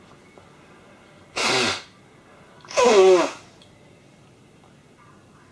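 A person sneezing: two loud bursts about a second and a half apart, the second one louder with a falling vocal cry.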